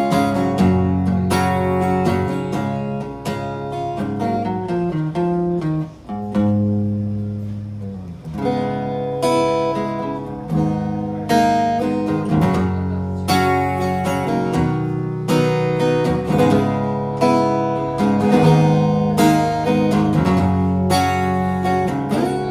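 Instrumental passage of a song: acoustic guitar strumming chords, with a brief drop in loudness about six seconds in.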